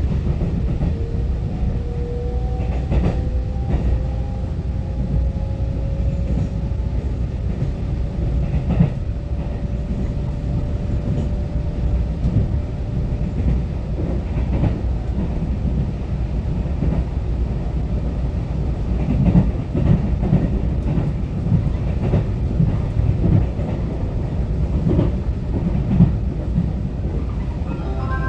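Taiwan Railway EMU900-series commuter train running along the line, heard on board: a steady low rumble of wheels on track with scattered clicks and knocks from the rails. A faint motor whine slowly rises in pitch over the first dozen seconds.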